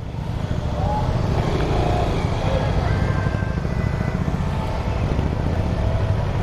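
Motorcycle engine running at low speed, a steady low rumble with rapid even pulsing, as the bike is moved into a parking spot.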